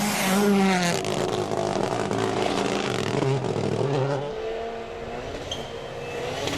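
Rally car engine revving hard, its pitch rising and falling as it accelerates and shifts gear, then easing off about four and a half seconds in.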